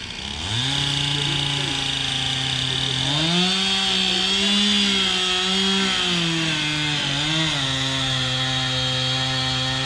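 Chainsaw revving up from idle about half a second in and running at speed, its pitch rising higher around three seconds and falling back about seven seconds in, as a tree is cut down.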